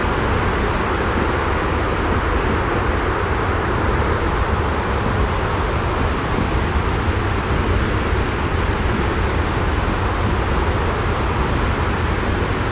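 Steady jet airliner cabin noise: an even, deep rumble with a softer hiss above it, unchanging throughout.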